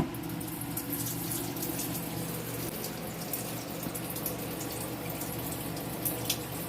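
Water running and splashing in a small portable washing machine, steady throughout, over a low steady hum. A sharp click right at the start.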